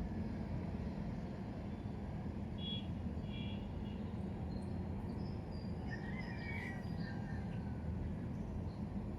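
Steady low background rumble, with a few short high chirps about three seconds in and again about six to seven seconds in.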